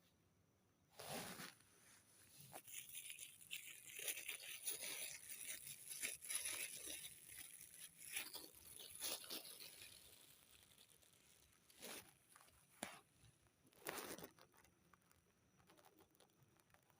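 Faint, irregular rustling and crinkling for most of the first ten seconds, then a few short separate scuffs near the end.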